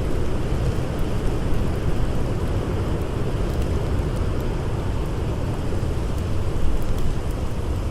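Steady blizzard wind, a dense low rumble with no let-up, mixed with faint crackles of a wood fire.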